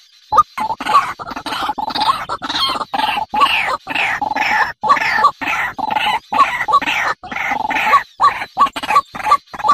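Birds giving a rapid, continuous series of short, harsh calls, several a second, each with a sharp rising start.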